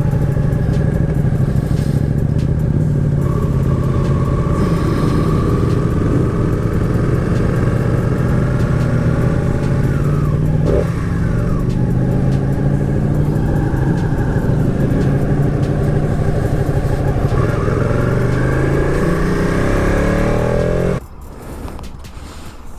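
Sports motorcycle engine heard from the bike while riding, its pitch climbing through the revs and dropping back at gear changes. The sound falls away sharply near the end.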